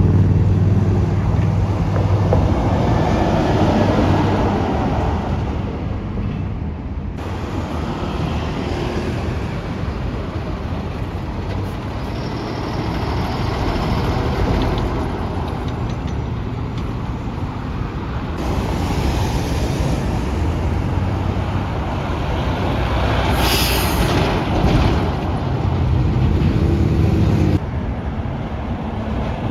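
Heavy trucks' diesel engines running with road noise, over several clips that change abruptly. There is a short hiss of air about two-thirds of the way through.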